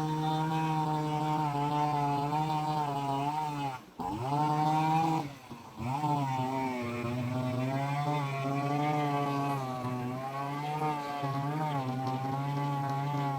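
Small handheld petrol garden-tool engine, Stihl trimmer or Kombi edger type, running at high revs. The throttle is let off briefly twice, about four and five and a half seconds in, with the pitch dropping and coming back up each time. The pitch wavers slightly as the tool works.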